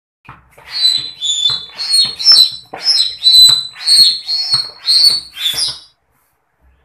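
Hand-operated floor pump inflating a latex balloon: about ten quick strokes, roughly two a second, each a rush of air with a high squeak, stopping about six seconds in.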